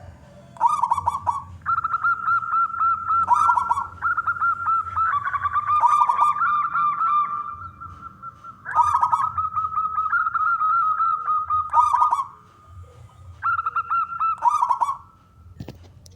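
Male zebra doves (perkutut) cooing: bursts of fast, rapidly repeated notes, with two voices overlapping in places, coming in several phrases with short pauses between.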